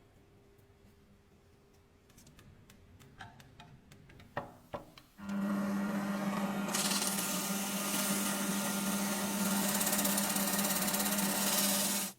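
A few light clicks and knocks of handling, then a small electric motor switches on about five seconds in and runs at a steady speed with a strong hum and a high whir. It stops abruptly just before the end.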